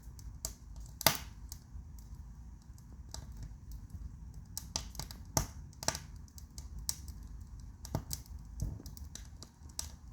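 Wood fire crackling in a fireplace: irregular sharp pops and snaps, the loudest about a second in, over a steady low rumble.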